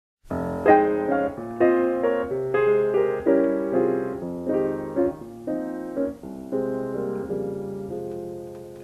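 Short piano tune: a series of struck notes and chords, the last chord held and fading away.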